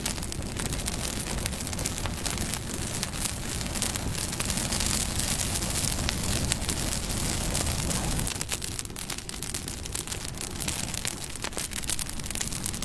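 Wood fire burning: a steady rush of flame with frequent sharp crackles and pops, growing louder for a few seconds around the middle.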